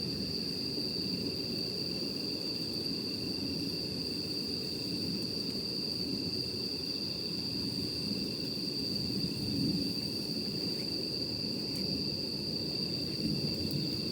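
Night insects calling in one continuous high, steady tone over the low rumble of a wood campfire, with a few faint crackles near the end.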